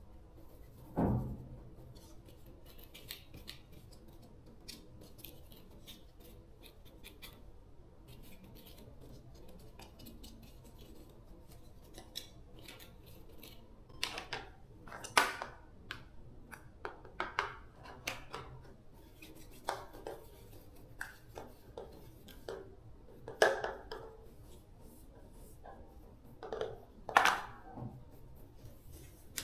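Workbench handling sounds of tools and small metal parts: light scraping and clicking, with a dull thump about a second in and a run of sharper clinks and knocks from about halfway on.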